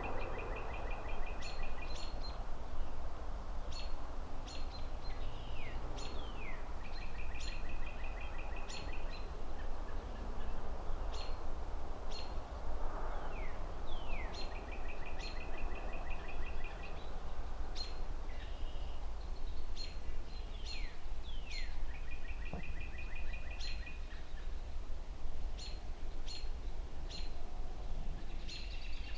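Songbirds chirping: a short trilled phrase repeats every six to eight seconds among brief high chirps and down-slurred notes. Under them, a steady low rumble and hiss of distant city traffic.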